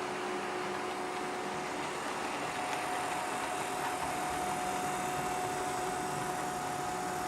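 Two model GP35 diesel locomotives running on a layout, pulling a loaded ore train: a steady mechanical running sound with a hum whose pitch shifts up about two seconds in.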